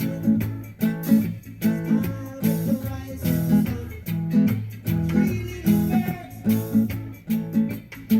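Guitar strummed in a steady rhythm, playing through the chords of a song's verse with one strum pattern per chord.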